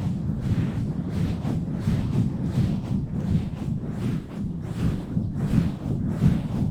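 Hands rapidly pumping, rubbing and scratching directly on a microphone, producing a loud, muffled rumble with fast rhythmic strokes, roughly two to three a second.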